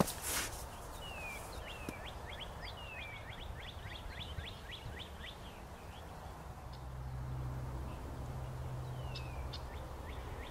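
Outdoor ambience with a small bird chirping: a fast run of short falling chirps for a few seconds, then a few more near the end. A brief rush of noise right at the start, and a low steady hum for about three seconds past the middle.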